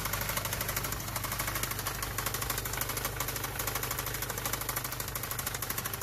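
Car engine running with a fast, even, rhythmic knocking.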